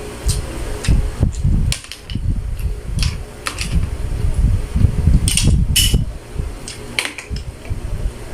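Close-up eating and handling of seafood: sharp cracks and clicks of shells being broken, a cluster of them about five to six seconds in, over irregular low bumps and rumbles against the microphone.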